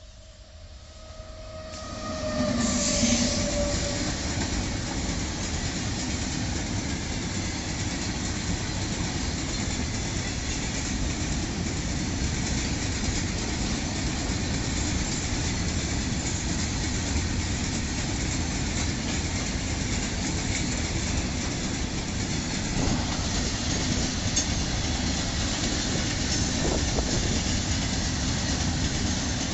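Freight train passing close by: a WAG-9HC electric locomotive reaches the spot about two seconds in and the sound rises sharply, then a long rake of BOXN open-top wagons rolls past with steady steel-wheel-on-rail noise.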